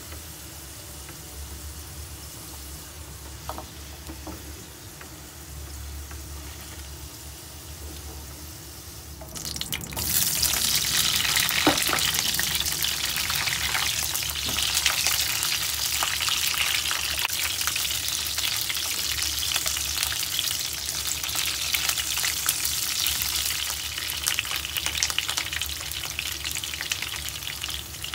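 Oil sizzling in a frying pan as potato chunks fry and are turned with a wooden spatula. About ten seconds in, the sizzling turns much louder and more crackly as red bell pepper pieces fry and brown in the hot oil, stirred now and then with the spatula.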